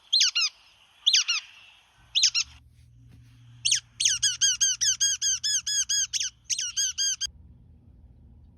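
A bird's song or call recording played back, made of sharp falling notes. A few come singly at first, then a quick run of about five notes a second follows, and the sound stops abruptly about seven seconds in.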